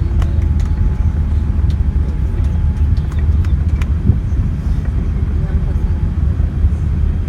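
Cabin noise inside a Boeing 787 rolling on the ground after landing: a steady low rumble with scattered light rattling clicks.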